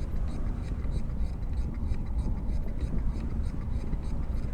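Wind buffeting the microphone of a camera on a moving bicycle, a steady low rumble, with faint regular ticking about two to three times a second.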